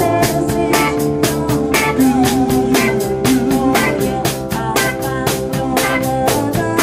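Live rock band playing an instrumental passage: drum kit keeping a steady fast beat under electric guitar and bass.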